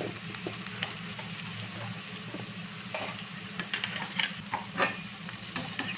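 Chopped onion and capsicum sizzling in hot oil in a pan, with short scrapes and knocks of stirring here and there, more of them in the second half.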